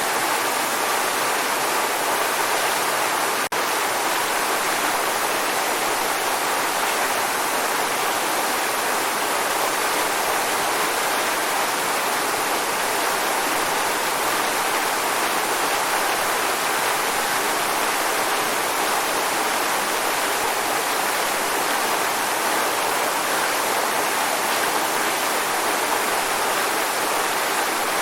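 Waterfall rushing in a steady, even roar of falling water, with a split-second dip in level about three and a half seconds in.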